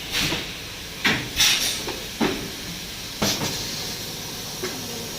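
Bottle and jar making machinery in a plastic bottle factory: short hissing bursts, like compressed air, come about once a second over a steady background hiss, some with a knock at the start.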